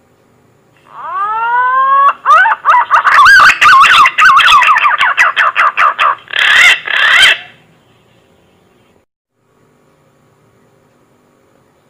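Green pigeon (punai) whistled song, starting about a second in: a few rising whistles, then a fast warbling run of notes, ending with two louder notes.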